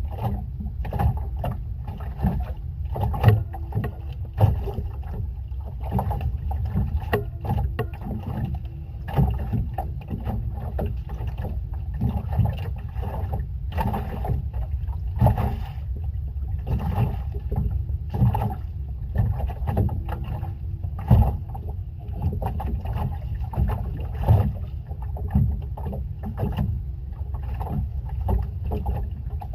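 Small boat at sea with water slapping against the hull and frequent irregular knocks over a low, steady rumble.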